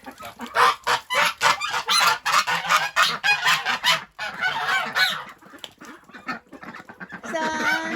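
A flock of domestic ducks quacking loudly and rapidly, complaining about having no mud to dabble in. The calling thins out and quietens after about five seconds, then a longer drawn-out pitched call starts near the end.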